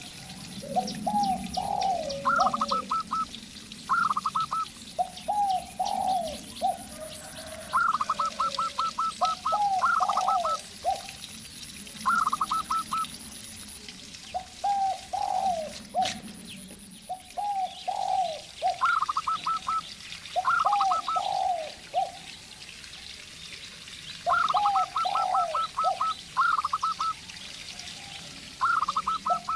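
A zebra dove and a spotted dove calling back and forth. The zebra dove gives quick runs of short, higher-pitched notes, and the spotted dove answers with lower, bending coos, a phrase every second or two.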